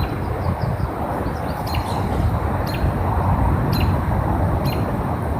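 A bird's short, sharp chip note repeating about once a second from a couple of seconds in, over a steady low outdoor rumble.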